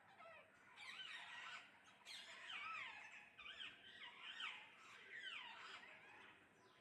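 A flock of parrots screeching, faint: many short overlapping calls that swoop up and down in pitch, thickening about two seconds in.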